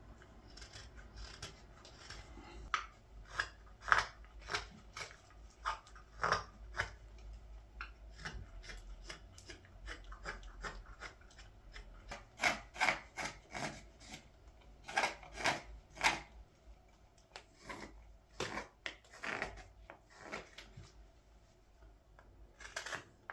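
Carving blade slicing a green-wood ladle: many short, irregular cutting strokes, some coming in quick runs, as the wood is shaved along a stretch of wobbly grain.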